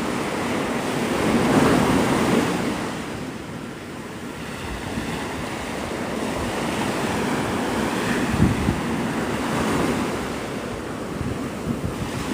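Gulf surf breaking and washing up the beach, rising and falling in waves, with wind buffeting the microphone.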